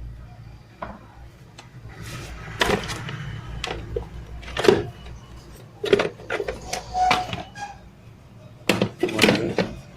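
Parts of a mixer grinder being handled and taken apart: irregular knocks, clatters and scrapes of plastic and metal, with a brief ringing tone about seven seconds in.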